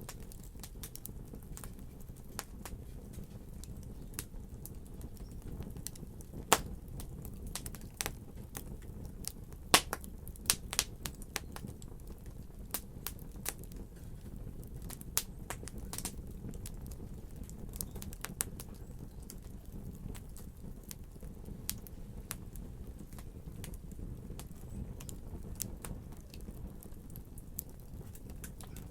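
Wood fire crackling in a fireplace: a steady low rumble of flames with sharp irregular pops and snaps, a few louder pops about a third of the way in.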